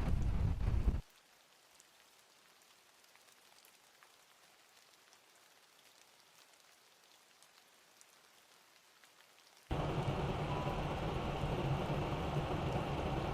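Blizzard storm noise: wind buffeting the microphone over a steady hiss. It cuts off abruptly about a second in, leaving a faint hiss with scattered light ticks, and comes back just as suddenly near the end.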